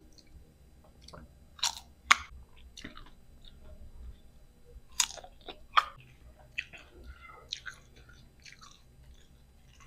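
Crisp bites into slices of green mango dipped in bagoong: sharp crunches about two seconds in and again around five to six seconds, then quieter crunchy chewing.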